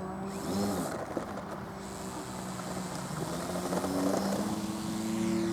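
Radio-controlled model plane's motor and propeller running, a steady hum. About four seconds in a second, higher tone rises and then holds as a motor speeds up.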